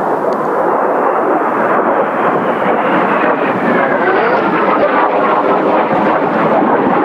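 Kawasaki T-4 jet trainers passing low overhead, with a loud, steady jet noise and a whine that falls in pitch a few seconds in as they go by.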